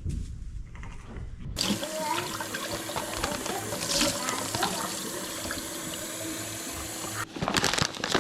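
Water running steadily from a tap, starting abruptly about a second and a half in and cutting off near the end, followed by a quick run of clicks and clatter.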